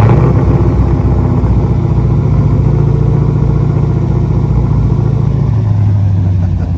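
LS V8 in a swapped BMW, just started and idling loudly; its idle settles slightly lower about five seconds in.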